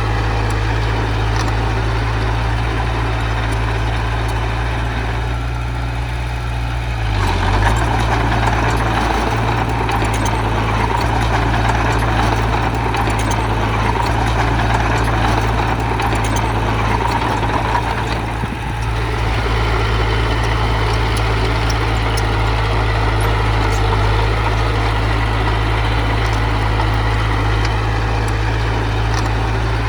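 Heavy diesel machine engine running steadily, growing louder and harsher for about ten seconds in the middle as it works harder, then settling back.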